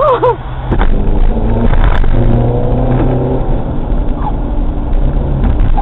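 A car engine running and revving, its pitch shifting up and down, with a sharp knock about a second in.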